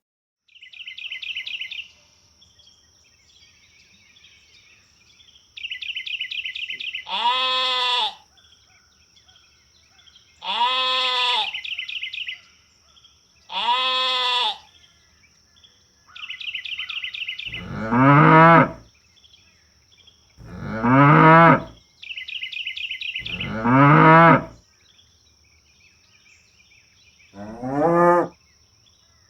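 Cattle mooing: about seven separate drawn-out calls, each about a second long, the later ones deeper and louder. Between the calls, insects chirp in short trains over a steady high insect drone.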